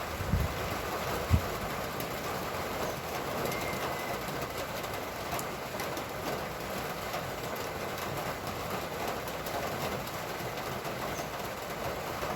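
Steady hiss of rain falling, with wet-road traffic noise, and two short low thumps in the first second and a half.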